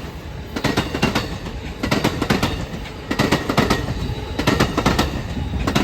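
Amtrak passenger train rolling past, its wheels clacking over rail joints in quick groups about every second and a quarter over a steady rumble.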